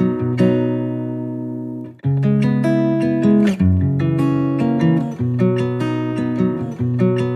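Background music: acoustic guitar strumming chords, one chord left to ring and fade before a brief break about two seconds in, then the strumming picks up again.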